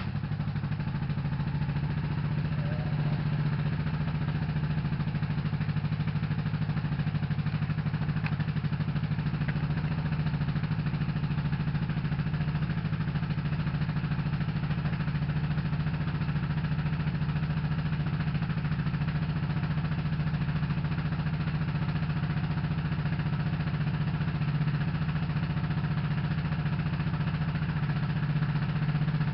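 Yamaha SRX600's single-cylinder four-stroke engine idling steadily, an even low thudding tone that does not change in speed.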